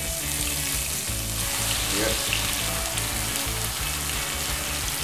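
Blended chili and shallot spice paste poured into hot oil in a frying pan, sizzling steadily as it starts to fry with lemongrass, ginger and galangal.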